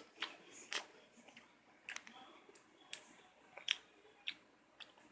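Someone chewing, with a string of short wet clicks and small crunches roughly every half second to second.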